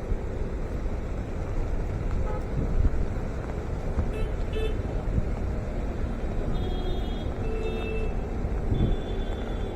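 City road traffic: a steady low rumble of passing vehicles, with a few short car-horn honks in the second half.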